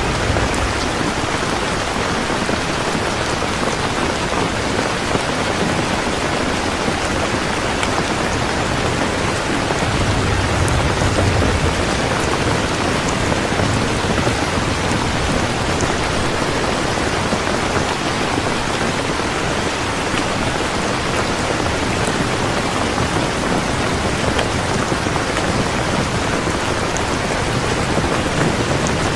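Heavy, steady rain pouring down, with low rumbles of thunder swelling near the start and again about ten seconds in.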